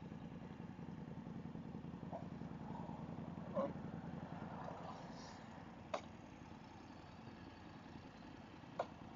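Motorcycle engine idling steadily while stopped, with a few sharp clicks over it.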